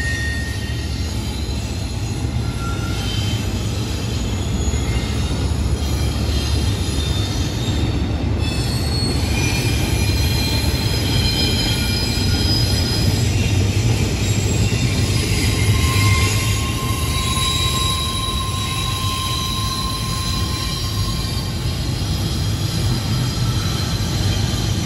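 CSX double-stack container freight train rolling past: a steady low rumble of cars on the rails, with thin high-pitched wheel squeals coming and going and one longer, lower squeal a little past the middle.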